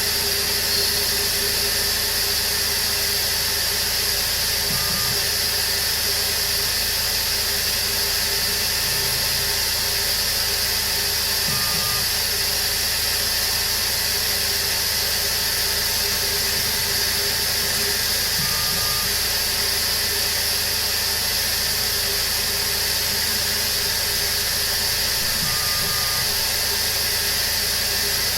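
Emco CNC milling machine running steadily with its spindle turning bar stock, used as a lathe. A constant machine hum and hiss, with a short faint tone recurring about every seven seconds.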